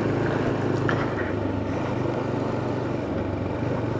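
Motorcycle engine running steadily under way, with a steady rush of wind and road noise.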